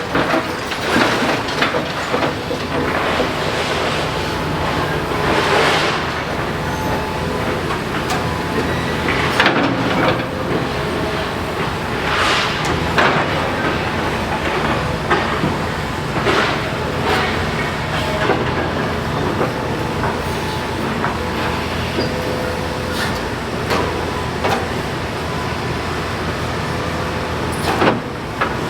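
Demolition excavator's engine running steadily, with crunching and scraping of rubble coming every few seconds.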